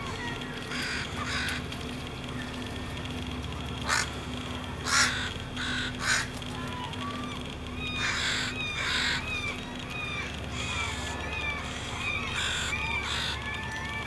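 Birds calling: a few loud, harsh caw-like calls, with many short chirps repeating in between. Underneath is a steady rush of water from the shallow stream.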